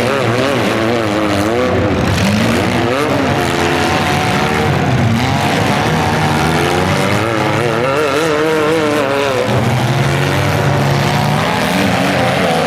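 Several compact demolition-derby car engines running and revving at once, their pitches rising and falling constantly.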